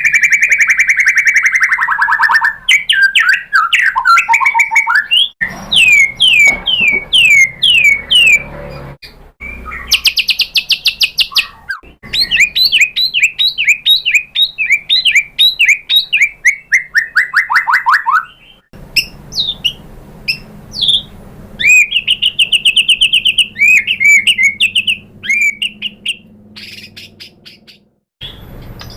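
White-rumped shama singing a loud, varied song: whistled glides mixed with fast runs of repeated sharp notes and rattling trills, one phrase after another. The song breaks off and changes character abruptly several times.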